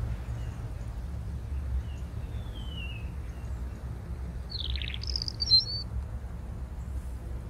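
Birds calling over a steady low rumble: a faint gliding call about three seconds in, then a short buzzy call followed by a few high chirps, the loudest about five and a half seconds in.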